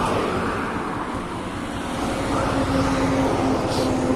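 Motorcycle engine running steadily while riding, with rushing wind on the microphone. A steady tone joins in about halfway through.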